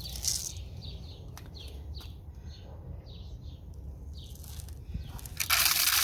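Small birds chirping in a quick series of short high calls. About five seconds in, a loud rushing hiss starts: birdseed being poured into a feeder.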